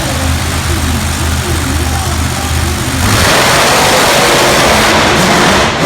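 Monster truck engine rumbling at low revs, then opened up to a loud full-throttle run about three seconds in, held until just before the end.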